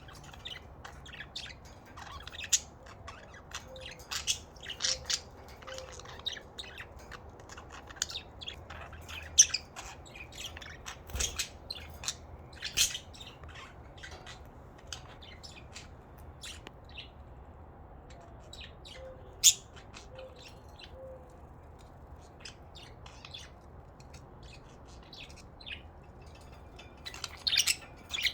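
Pet budgerigars chirping and chattering: many short, high-pitched calls at irregular intervals, a few of them sharp and loud, with a quick flurry of calls near the end.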